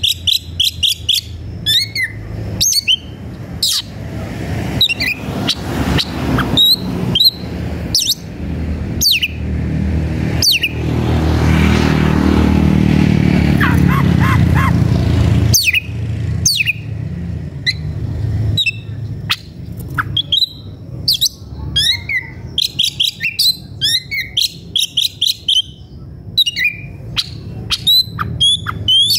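Oriental magpie-robin (kacer) singing a rapid, varied run of sharp whistles and chattering notes: the heated, aggressive song of a bird challenging a rival. A steady low hum runs underneath, with a louder rushing noise between about 11 and 15 seconds.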